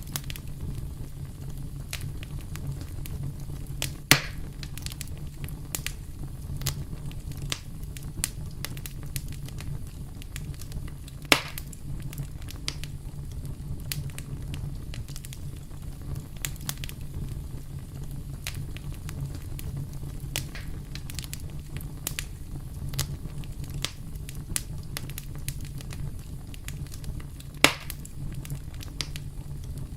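Wood fire burning with a steady low rumble and constant crackling, with three louder pops about 4, 11 and 27 seconds in.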